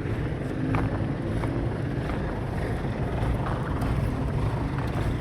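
Steady low rumble of road traffic at a busy border crossing, with some wind on the microphone.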